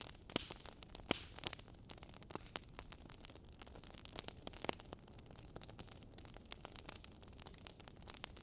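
Wood fire burning in a fireplace: logs crackling with frequent irregular pops and snaps, a few sharper ones standing out, over a soft hiss.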